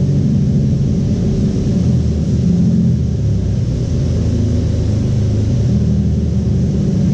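Keeway K-Light 202 motorcycle's single-cylinder carburetted engine running steadily on a chassis dynamometer, its rear wheel driving the dyno roller during a carburettor-tuning run.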